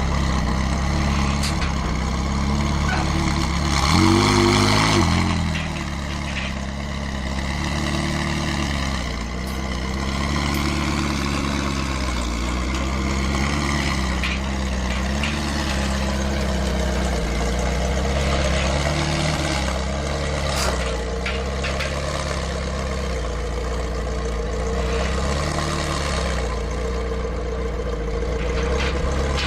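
Car engine idling steadily, with one short rev about four seconds in.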